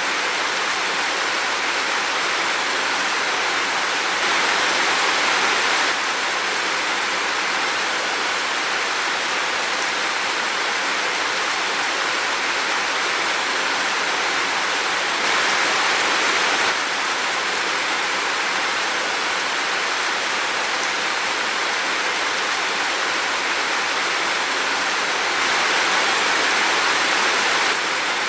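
Heavy rain falling steadily as an even hiss, swelling slightly three times for a second or two.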